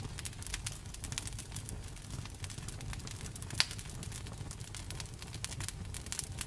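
Wood fire burning with a low steady rumble and scattered small crackles, one sharper pop about three and a half seconds in.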